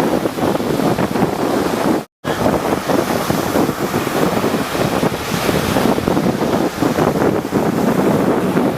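Rough sea waves surging and breaking, with wind buffeting the microphone. The sound drops out completely for a split second about two seconds in.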